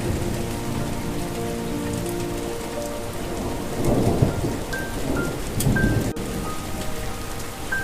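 Steady rain with rolls of thunder, loudest about four and six seconds in. Soft sustained melody notes play over it.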